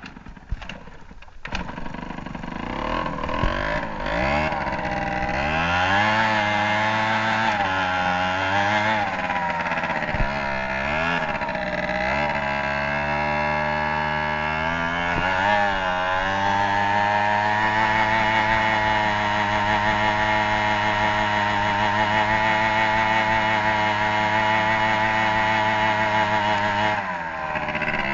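Motorcycle engine starting after a few clicks, revved up and down several times, then held steady at high revs for about ten seconds as it spins the rear tyre, before the revs drop near the end.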